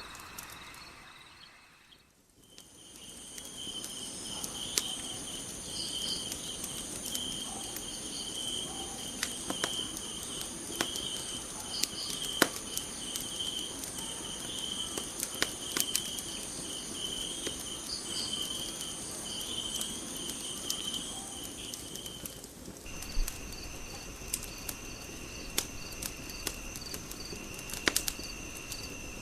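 Night ambience of crickets chirping steadily, with scattered sharp pops and crackles of a wood fire. The sound fades out briefly about two seconds in, then comes back. About three-quarters of the way through it switches to a different set of insect chirps.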